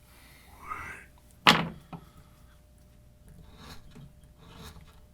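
One sharp thunk about a second and a half in, then a lighter click and faint scraping strokes: a D2-steel folding knife blade cutting and striking its cutting surface.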